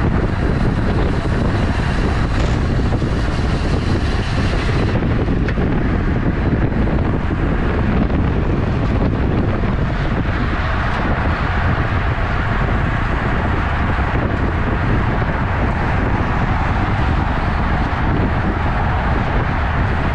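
Wind buffeting the camera microphone on a moving road bicycle, a loud, steady rumble that is heaviest in the low end.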